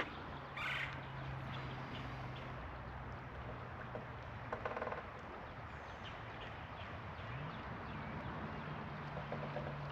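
Outdoor ambience at a river bank: a steady rush of flowing river water with faint bird calls, and a couple of brief scuffs of footsteps.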